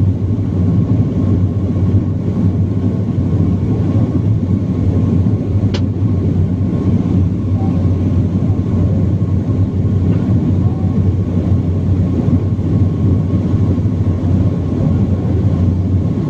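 Steady cabin drone of a BAe 146 four-engine turbofan jetliner in flight, heard from inside the cabin, with a faint high steady whine above the low rumble. A single sharp click sounds about six seconds in.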